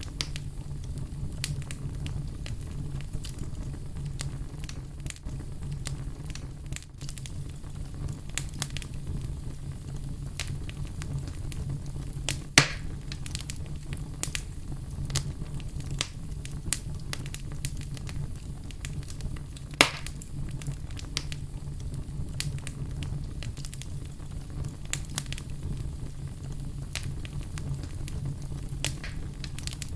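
A fire burning with a steady low rumble and irregular crackling throughout. Two louder sharp pops stand out near the middle, about seven seconds apart.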